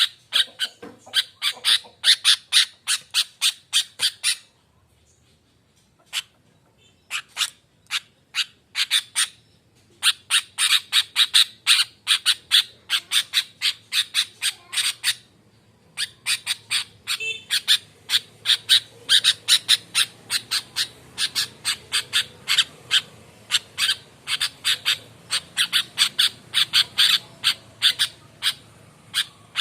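Sooty-headed bulbul (kutilang) calling in long, rapid runs of sharp, chattering notes, several a second. The runs break off briefly twice, about four seconds in and about fifteen seconds in.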